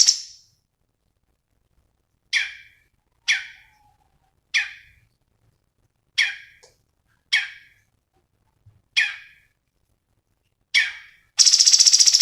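Songbird giving eight short, sharp calls, each falling in pitch, about once a second, after a rapid high trill stops at the start. Near the end it breaks into another loud, rapid high trill.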